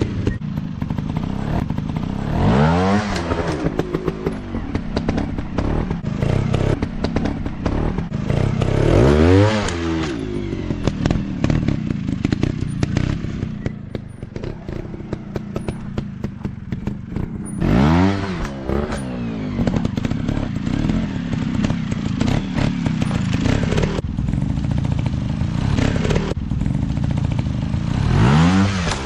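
Dirt bike engine running, with four sharp throttle bursts in which the pitch rises and quickly falls back, with clattering and thuds between them.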